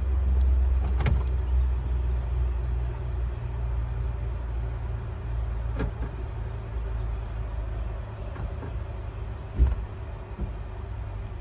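Truck door being unlocked and opened: a few sharp clicks, the loudest knock about nine and a half seconds in, over a steady low vehicle rumble that slowly fades.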